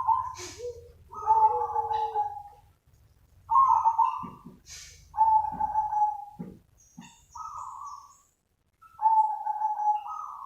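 Zebra dove (perkutut) cooing: a run of short call phrases, about six, repeated with short pauses between them.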